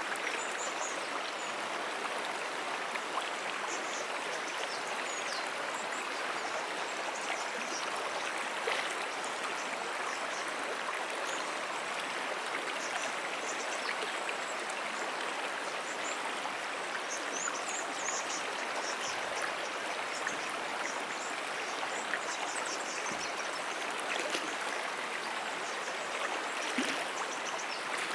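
Moonan Brook, a small stream, running and rippling over its bed with a steady, even rush of water.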